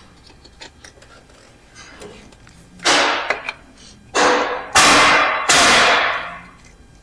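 Loud work-shop noise: four sudden bursts, a few seconds in, each fading over half a second to a second. The tool that makes them is not known.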